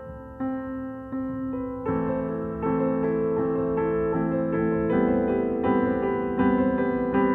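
Background piano music: a gentle piano piece with notes struck in a steady pattern, growing fuller and louder about two seconds in.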